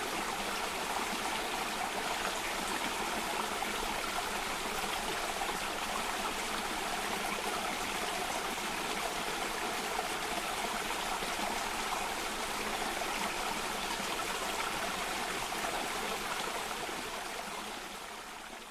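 Cascading waterfall water, a steady rushing sound that fades out over the last few seconds.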